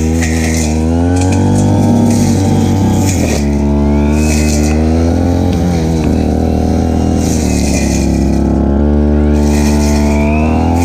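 Stihl FR3001 backpack brush cutter's two-stroke engine running loud under load, its speed swelling and dropping again several times as it cuts grass.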